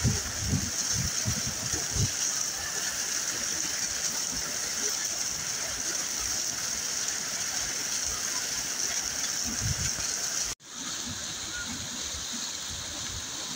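Waterfall water rushing and splashing steadily, with a few low bumps early on. About ten and a half seconds in, the sound cuts out for an instant and comes back slightly quieter.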